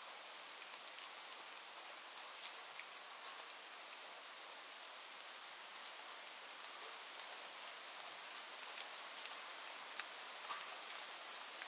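Steady rain: an even soft hiss with many small scattered drop ticks.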